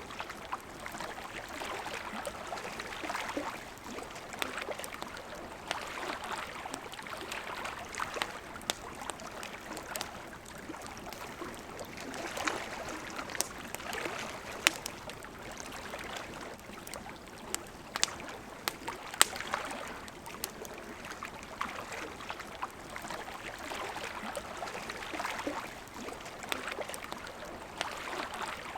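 Wood campfire crackling with scattered sharp pops over the steady, swelling rush of river water. Two pops about halfway through stand out as the loudest.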